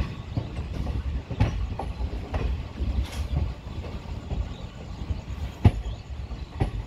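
Passenger train pulling out, heard from inside the coach: a steady low rumble of the running gear with irregular knocks of the wheels over the track. The sharpest knock comes near the end.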